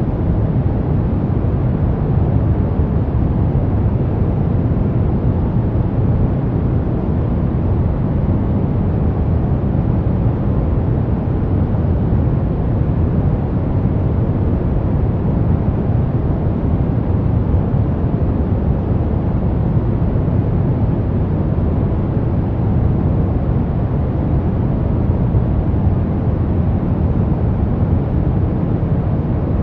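Brown noise: a steady, deep hiss rumble, strongest in the bass and thinning toward the highs, with no change throughout.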